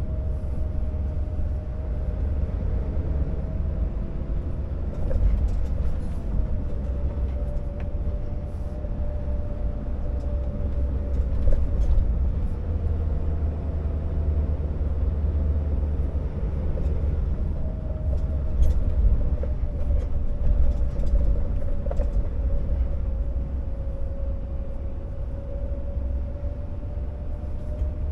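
Scania R650 timber truck's V8 diesel running under load on the move: a steady deep rumble with a thin whine that slowly sags and rises in pitch, and a few light rattles.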